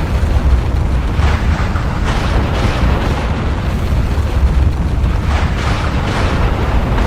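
Volcanic eruption: a continuous deep rumble, with rushing, hiss-like surges rising over it about a second in, around two seconds in, and again between five and six seconds in.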